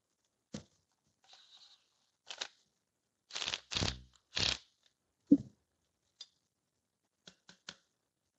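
Workshop handling noises: scattered clicks and short scrapes, a run of louder rasping scrapes around the middle, and one sharp knock about five seconds in.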